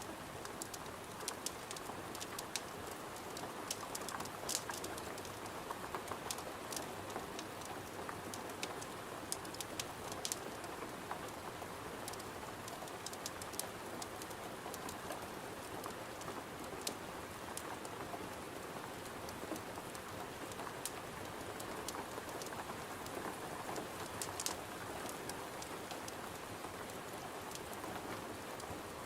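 Steady rain against a window with the irregular sharp pops and crackles of a wood fire scattered through it.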